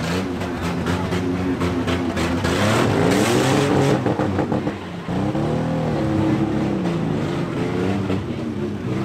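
Several demolition-derby minivan engines revving hard, their pitch rising and falling over one another. A loud rushing hiss swells about three seconds in, and the engines dip briefly near five seconds before picking up again.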